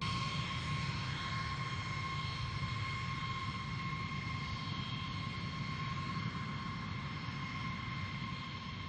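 Jet aircraft engines running steadily: a high, even whine with overtones above a low rumble, cutting in suddenly at the start.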